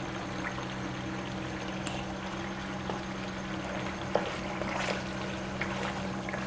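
Mutton karahi sizzling and bubbling in the pan as yogurt is stirred in with a wooden spatula, with a few soft knocks of the spatula against the pan about four to five seconds in. This is the bhuna stage, the meat frying in its masala once the water has cooked off, over a steady low hum.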